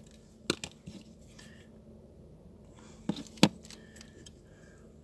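Sharp clicks and taps from hands handling craft tools and materials: two about half a second in, two more around three seconds in.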